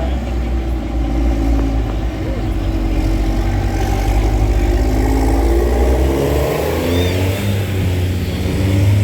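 Tractor engines running as tractors drive past, one engine's note rising as it picks up speed in the second half.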